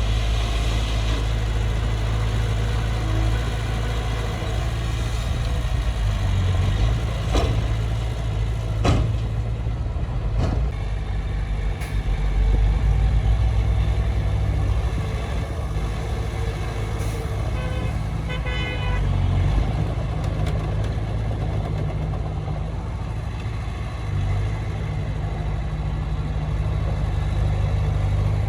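Heavy diesel earthmoving machinery running steadily, with a few sharp knocks about a quarter to a third of the way in and a brief run of short beeps about two-thirds of the way through.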